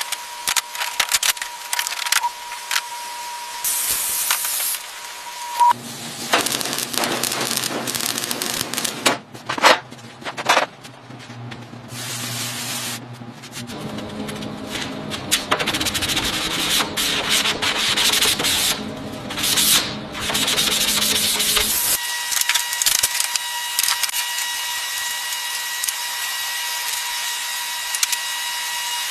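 Car bodywork being sanded and rubbed down, with abrupt changes in sound several times. Some stretches carry a steady machine whine.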